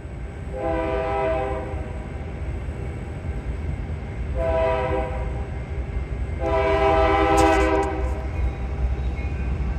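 Freight locomotive's air horn sounding three blasts, the last one the longest, over the steady low rumble of the passing train.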